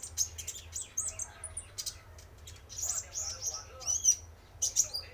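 Male kolibri ninja (konin) sunbird singing: a rapid run of very high, sharp chirps, ticks and short trills, louder in flurries near the middle and end, used as a lure call for other sunbirds.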